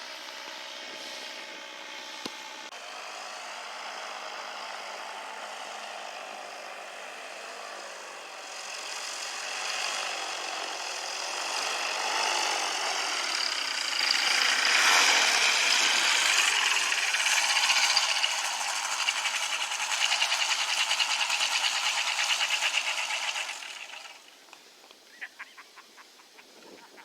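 Small propeller engine running, its pitch wavering, growing louder to a peak and then dropping away abruptly near the end, as when throttled back.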